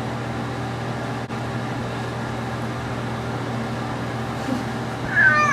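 Electric hair clippers buzzing steadily as they shave a cat's matted fur. Near the end the cat meows.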